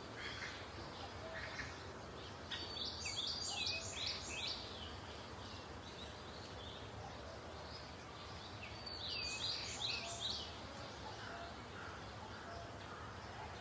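Faint birdsong: two short phrases of quick, falling chirps, about three seconds in and again about nine seconds in, over a low steady background noise.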